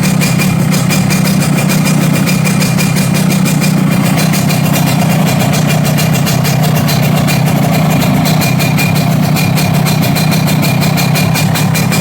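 Two-stroke Yamaha motorcycle engine idling steadily through an aftermarket stainless 'Creampie' exhaust: a fast, even pulsing exhaust note that holds at one pitch without revving.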